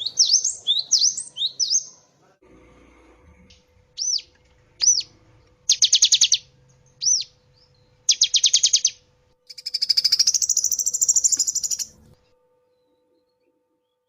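Cinereous tit (gelatik batu) singing: a quick run of rising chirps, then single arched whistled notes mixed with short rapid trills, and a harsher buzzing phrase for about two seconds before the song stops near the end.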